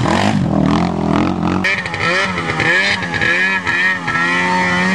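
Off-road vehicle engine running, with an abrupt change in the sound just under two seconds in, after which the engine's pitch wavers up and down about twice a second.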